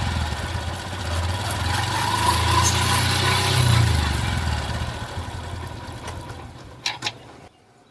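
Motorcycle engine running, started to check the chain noise after the front sprocket was turned around. It swells slightly twice, then fades, with two sharp clicks about seven seconds in before it goes quiet.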